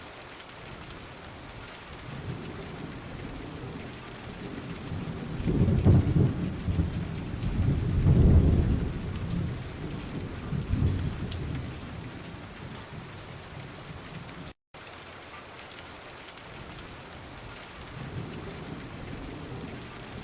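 Steady rain with rolling thunder: low rumbles build from about five seconds in, swell twice more, and fade back to the rain by about twelve seconds. The sound cuts out for an instant a little after halfway.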